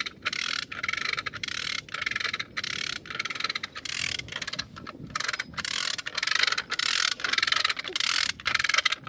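Rhythmic scraping or rasping strokes, about three a second, each a short burst of harsh hiss.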